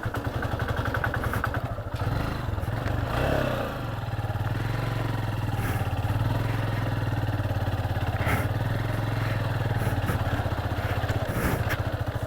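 Motorcycle engine running steadily under way on a rough dirt road, its pitch shifting between about two and four seconds in, with a few short knocks from the bike over the rough track.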